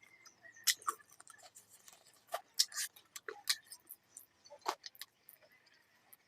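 Close-miked eating sounds: chewing and wet mouth clicks and smacks, irregular and sharp, with a few louder crackles.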